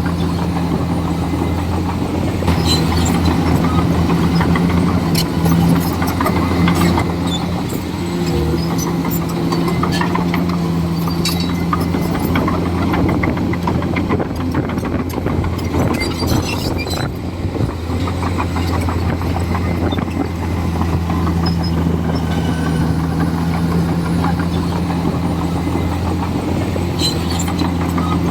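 Komatsu D41E crawler bulldozer's diesel engine running steadily, with scattered sharp clanks and knocks. The engine note shifts for a few seconds about a third of the way in.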